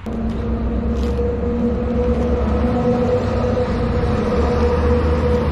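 A motor running steadily, with a constant hum over a low rumble.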